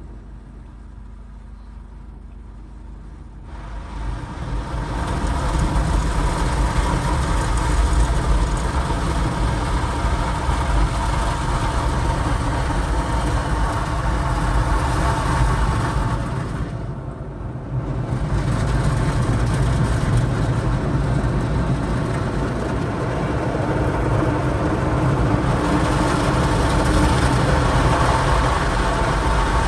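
Automatic rollover car wash working over the car, heard from inside the cabin as a steady rushing wash noise. It builds up about four seconds in after a low rumble and dips briefly around seventeen seconds.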